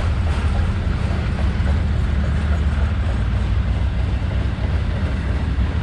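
Autorack freight cars of a freight train rolling past: a steady low rumble of steel wheels on rail.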